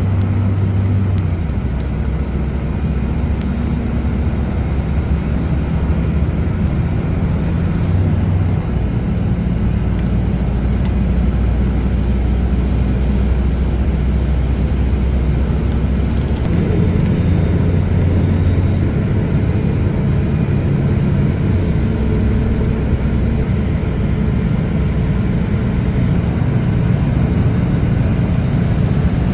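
Train running along the line: a steady rumble with low humming tones that shift in pitch about eight seconds in and again about sixteen seconds in.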